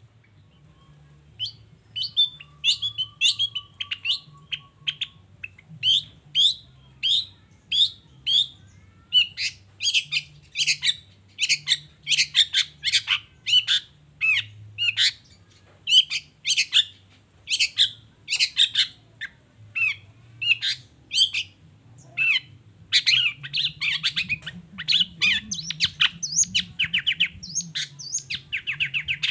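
Long-tailed shrike (cendet) calling: a steady string of short, sharp, high notes at about two a second, breaking into quicker chattering runs near the end.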